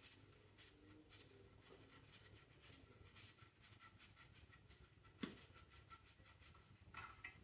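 Near silence with faint scattered clicks and light scraping, and one sharper knock about five seconds in.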